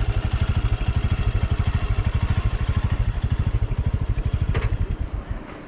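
Motorcycle engine running with an even, rapid pulsing beat, which dies away about five seconds in.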